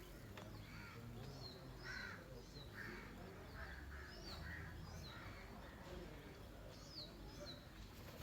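Birds calling faintly: short, high, falling chirps repeating about twice a second, mixed with harsher, lower calls, over a steady low rumble.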